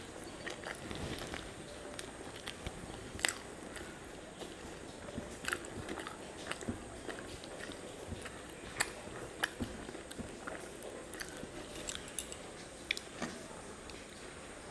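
Close-miked eating sounds: a person chewing mouthfuls of rice mixed with okra-and-potato curry, eaten by hand, with scattered sharp clicks and smacks throughout.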